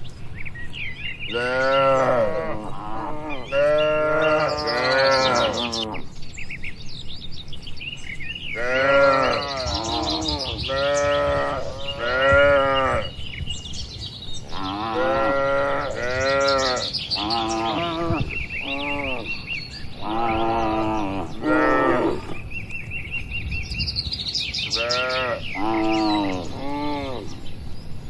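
Cattle mooing over and over in runs of short calls that rise and fall in pitch, with brief pauses between the runs. Small birds chirp faintly in the gaps.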